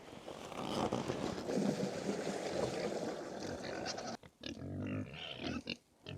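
Pigs grunting: a rough, noisy stretch, then a few deep pitched grunts in the last two seconds.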